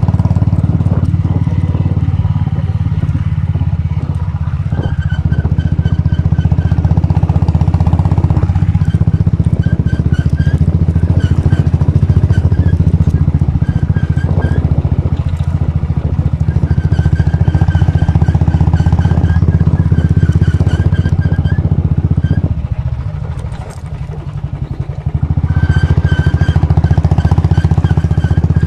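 Royal Enfield Bullet's single-cylinder engine running steadily under way with a low, even note. The engine eases off briefly about four-fifths of the way through, then picks up again.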